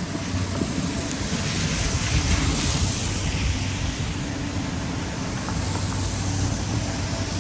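Steady rain hiss, with the low rumble of vehicle traffic on the street underneath.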